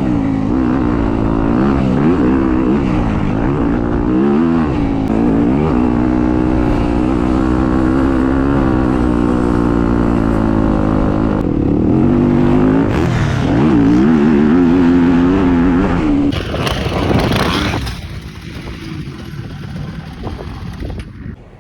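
Dirt bike engine revving hard, its pitch climbing and falling again and again as the throttle is worked and gears change. It drops off sharply about 18 seconds in.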